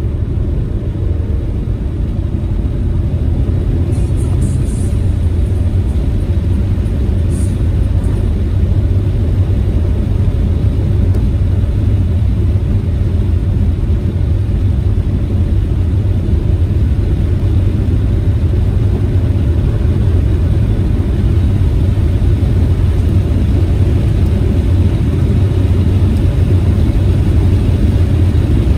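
Proton Saga car on the move, a steady low rumble of engine and road noise that builds slightly after the first several seconds, with a few faint clicks.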